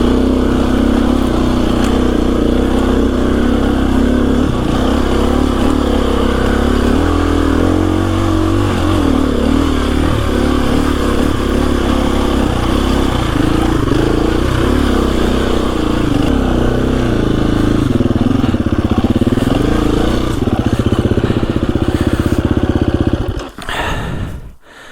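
KTM 350 EXC-F's single-cylinder four-stroke engine running as the dirt bike is ridden, its pitch rising and falling with the throttle. Near the end the engine sound drops away abruptly.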